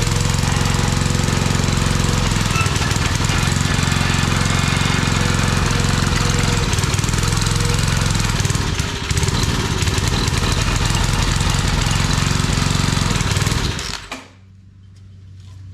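Old Briggs & Stratton 5 hp single-cylinder engine running loud and steady without its air cleaner, then cutting out abruptly about 14 seconds in. The owner thinks it ran out of the small amount of fuel he had put in.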